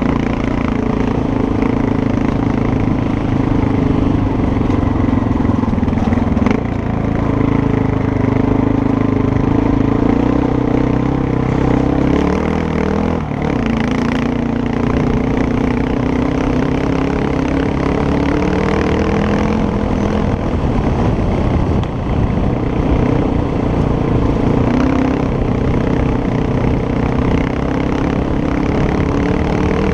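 Motorcycle engine running steadily under way, with a rush of noise over it. The engine note drops about halfway through, as the throttle is eased or a gear is changed, then climbs again.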